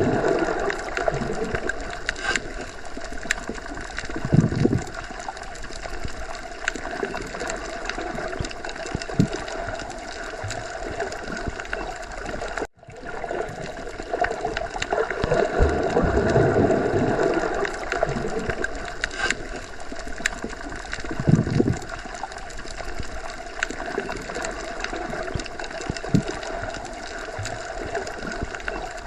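Underwater ocean ambience: a steady watery wash with slow low surges and scattered small clicks. It briefly cuts out about 13 seconds in, where the recording loops.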